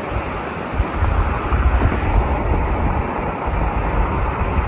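Steady rushing outdoor noise with wind buffeting the microphone in low, gusty rumbles.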